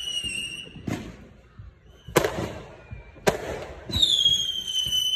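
Fireworks going off: three sharp bangs spaced about a second apart in the middle. Two long, high whistles, each falling slightly in pitch, from whistling fireworks: one fading out at the start and one beginning about four seconds in.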